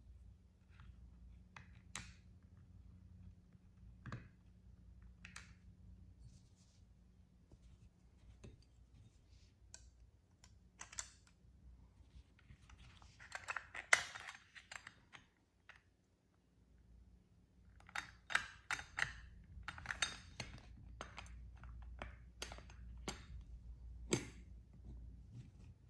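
Light clicks, taps and scrapes of small metal toy parts being handled and fitted together by hand, with a busier stretch about halfway through and again later, and one sharp click near the end.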